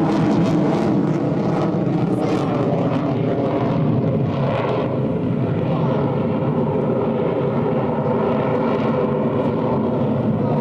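Aircraft engine running steadily, a continuous drone that holds level throughout.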